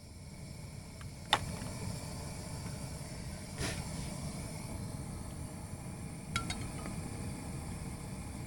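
Camp stove burning with a steady low rush while metal cookware clinks three times, the last clink ringing briefly.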